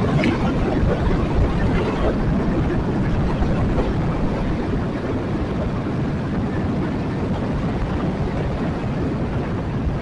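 Yamaha Jupiter MX 135 motorcycle on the move: its small single-cylinder engine running steadily under wind rush on the rider's microphone.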